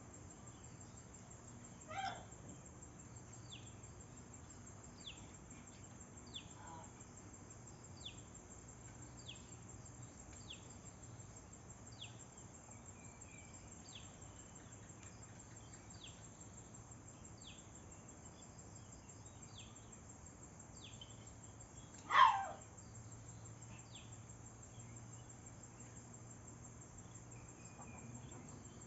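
Outdoor animal sounds: a short, high chirp falling in pitch repeats about every second and a half over a faint background hum. A louder call sweeping down from high to low comes about two-thirds of the way through, with a fainter one like it early on.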